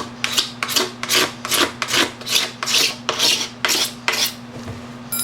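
Blade scraping a plastic motocross gas tank, shaving off its faded surface in quick repeated strokes, about two to three a second, that stop about four seconds in.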